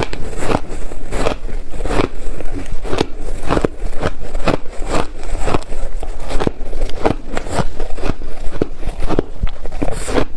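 Ice being chewed, crunching between the teeth in a steady run of bites, about two crunches a second.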